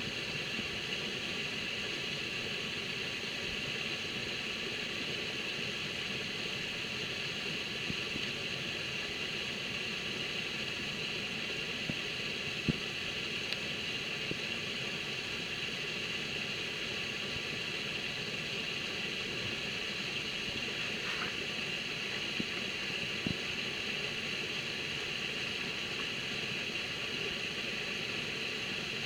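Landscaped garden waterfall: water falling and splashing in a steady, unchanging rush, with a couple of faint ticks.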